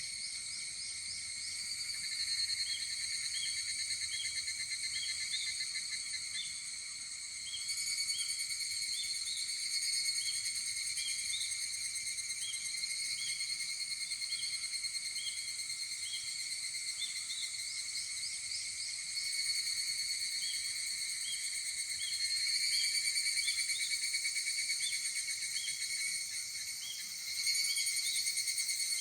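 Higurashi (evening cicada, Tanna japonensis) calling in chorus: rapid pulsing high-pitched trills from several insects overlapping, swelling louder as new calls come in about 2, 8, 19, 22 and 27 seconds in. A fainter short chirp repeats about twice a second underneath.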